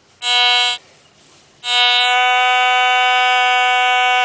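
Metal detector target tone sounding over a buried target: one short beep, then about a second and a half in a steady buzzy tone that holds unbroken.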